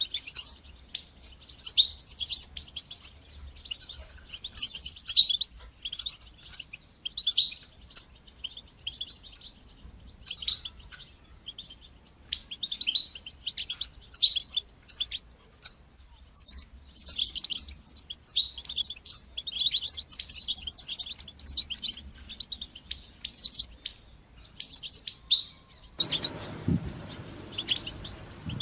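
European goldfinch song: rapid bright twittering and chirping phrases delivered in bursts, with short pauses between the runs of song.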